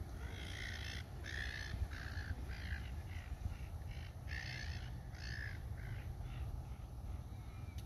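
A bird calling with a long series of short, harsh caws, about two a second, over a steady low rumble.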